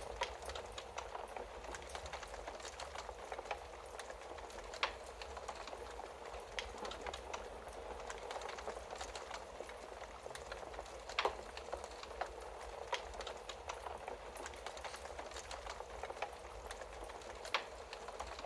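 Wood fire crackling steadily over a soft hiss, with many small snaps and now and then a sharper, louder pop.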